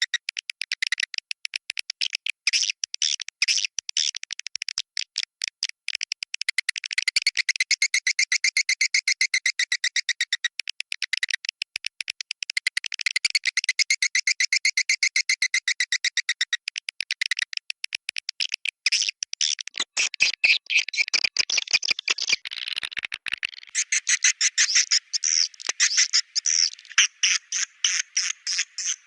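Swiftlet calls: a dense, continuous run of rapid high twittering chirps, many per second, of the kind played in swiftlet-house lure recordings.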